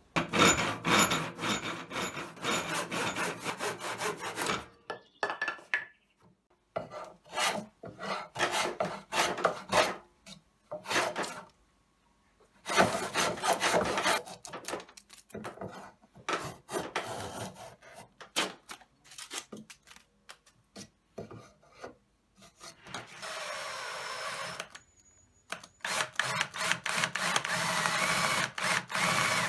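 A hand tool working wood in quick, scraping back-and-forth strokes, in several runs separated by short pauses.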